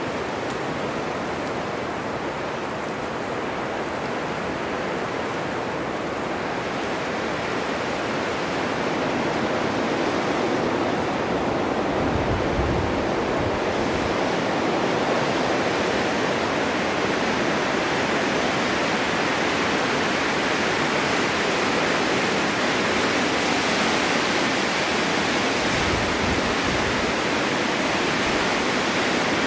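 Snowstorm wind blowing steadily as a continuous rushing hiss. It grows a little stronger about a third of the way in, with two brief low rumbling gusts.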